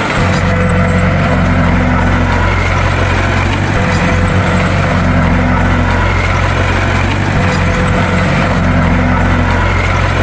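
Bulldozer's diesel engine running steadily, with a slightly higher note that comes and goes about every three to four seconds.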